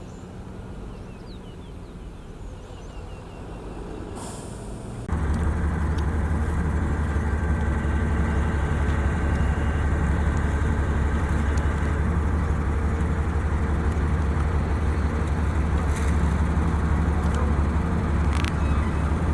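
Diesel engine of heavy road-building machinery running steadily; about five seconds in it suddenly gets much louder and holds a loud, low drone. A short hiss sounds just before the jump and another near the end.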